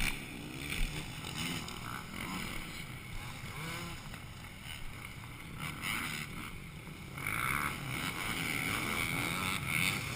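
Motocross motorcycle engines revving and easing off as the bikes lap the track, the pitch rising and falling; louder for the last few seconds.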